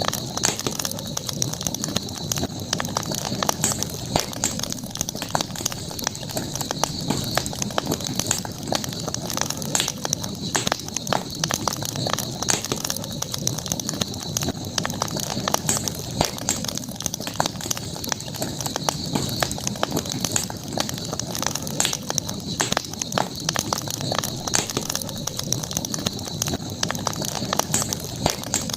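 Campfire burning, crackling with frequent sharp pops from the wood, over a steady high-pitched background drone.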